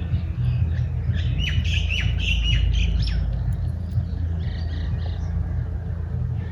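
Birds calling, a quick run of short squawking calls in the first half then scattered fainter calls, over a steady low rumble.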